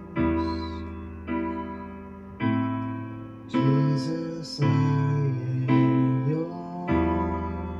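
Slow worship-style music on a keyboard: sustained piano chords struck about once every second and a quarter, each one fading before the next.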